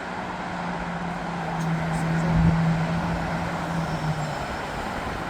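A heavy road vehicle passing close by over steady traffic noise. Its engine makes a low, even drone that swells to its loudest about halfway through and stops near the end.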